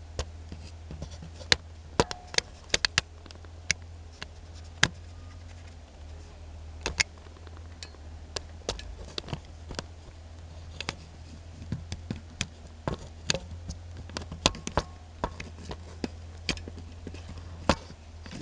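Irregular sharp clicks and taps of a hand-held camera and a 5/8 socket being handled against the truck's clutch adjusting bolt, some taps louder than others, over a steady low hum.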